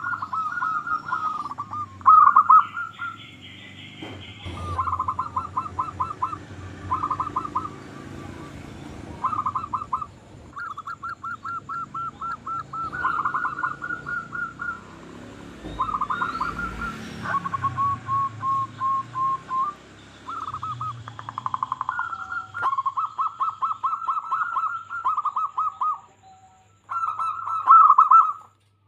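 Zebra doves (perkutut) cooing: bout after bout of quick, rippling staccato notes, one to three seconds long, separated by short pauses. This is the male's territorial and courtship song.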